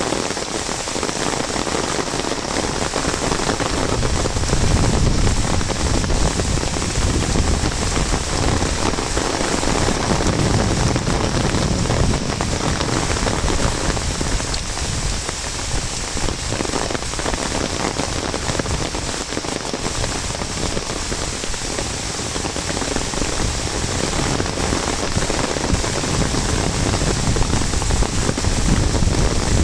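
Heavy monsoon rain falling steadily, with the rain hitting an umbrella overhead.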